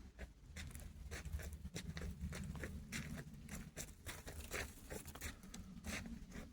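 Irregular soft crunches and clicks over a steady low rumble, the sound of a hiker walking on a trail with a handheld phone.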